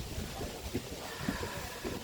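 Wind buffeting the microphone outdoors, an uneven gusty low rumble.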